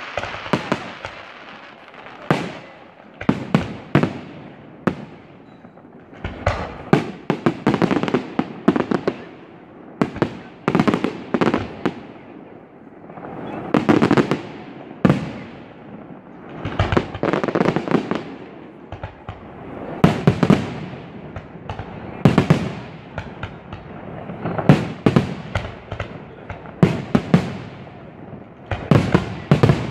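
Fireworks display: aerial shells bursting in quick succession, with many sharp bangs and cracks, often coming in dense clusters every couple of seconds.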